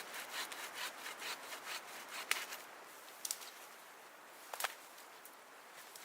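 Rhythmic rasping strokes, about four a second, like wood being worked or rubbed, followed by a few sharp cracks or snaps.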